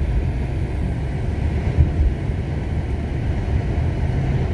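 Strong snowstorm wind buffeting the microphone: a loud, unsteady low rumble with a hiss of blowing wind over it.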